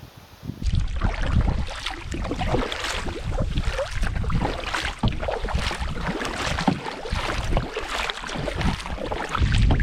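Wind buffeting the microphone over water splashing and lapping against a canoe. It starts abruptly about half a second in and keeps up a loud, gusty rumble.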